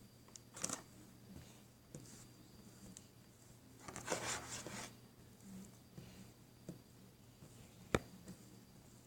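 Faint small handling noises: a few light clicks, a crackly rustle lasting about a second around the middle, and one sharp click near the end.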